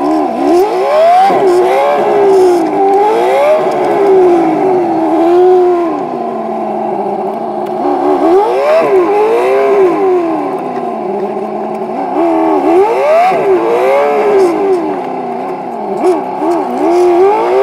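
Ford 5.0 Windsor V8 in a swapped Mazda Miata, heard from inside the cabin, revved in a series of throttle blips that rise and fall, with short spells of idle between. The engine is still warming up from a cold start.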